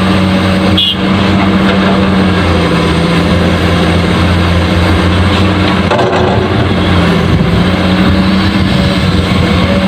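Steady truck engine sound running without a break, its pitch shifting slightly a couple of times, going with a toy dump truck.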